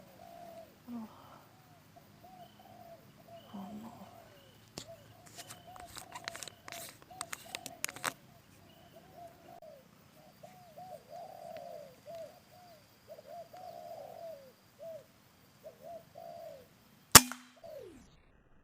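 Spotted doves cooing over and over in short arching notes, with a cluster of sharp clicks a few seconds in. Near the end comes a single loud shot from a PCP air rifle.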